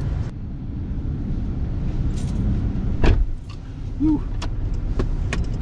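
Nissan Xterra's engine idling with a steady low rumble while someone climbs around inside the vehicle: scattered clicks and knocks, and one loud thump about three seconds in.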